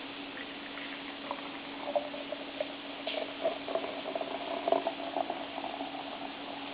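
Golden ale being poured into a glass, glugging and splashing irregularly from about a second in until near the end.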